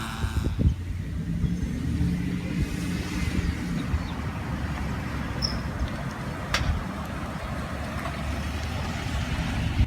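An engine running steadily at low revs with a low hum, with a few light knocks over it.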